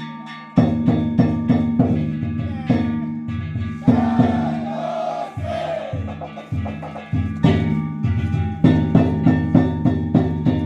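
Danjiri narimono: a taiko drum and kane hand gongs struck in a quick rhythm, the gongs ringing on between strokes. The playing stops briefly just after the start, and voices shout in the middle before the strokes pick up again.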